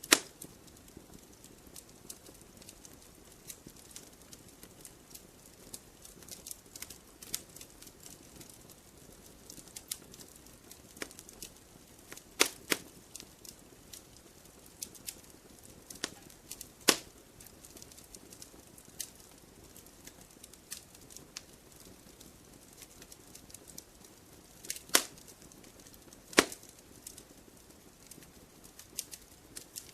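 Wood campfire crackling: an irregular scatter of small snaps over a soft hiss, with a few much louder pops spread through, the loudest right at the start.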